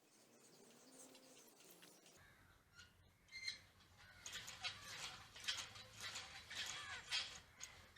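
Crows cawing: a run of harsh, overlapping calls in the second half.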